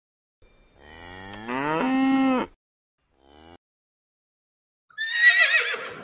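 A cow mooing once, a long call that rises in pitch and then holds steady. Near the end, a horse whinnies: a high, wavering call.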